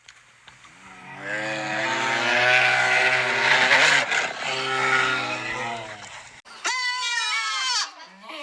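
Animal calls: a long, low, drawn-out call lasting about five seconds, then, after a brief gap, a higher bleat falling in pitch, like a goat or sheep.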